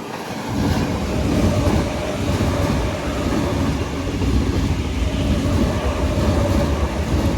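Sydney Trains Tangara electric train (sets T65 and T12 coupled) running along the platform. A steady rumble of wheels on rail builds over the first second and then holds, with a faint steady hum over it.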